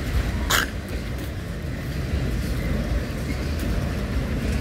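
Autorack freight cars rolling slowly past on a siding: a steady low rumble of wheels on rail, with one short sharp metallic noise about half a second in.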